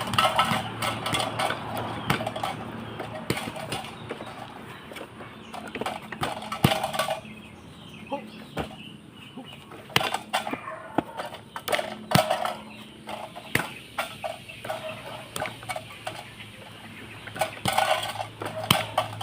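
Chickens clucking in repeated bursts, with sharp clicks and knocks scattered throughout.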